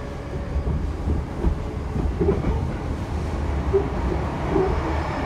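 Interior running noise of an E233-2000 series electric train with Mitsubishi IGBT inverter drive: a steady low rumble of wheels and running gear on the rails. It grows a little louder about two seconds in as the train enters a tunnel.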